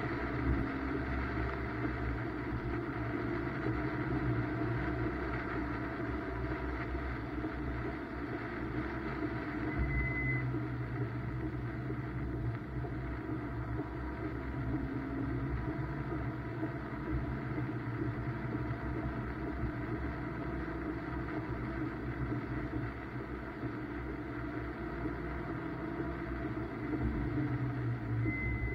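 BMW M2's engine running hard on track in the wet, its pitch stepping up and down as the car accelerates and shifts, over a steady wash of tyre and spray noise. A short high beep sounds about ten seconds in and again near the end.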